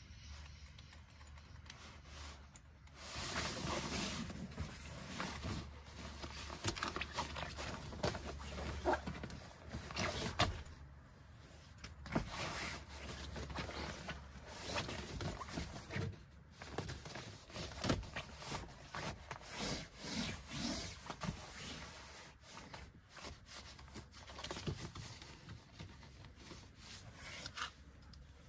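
Rustling, rubbing and scraping of a rolled sleeping pad being unrolled, shifted and smoothed flat on a rubber floor mat, in irregular handling noises with small clicks, over a steady low hum.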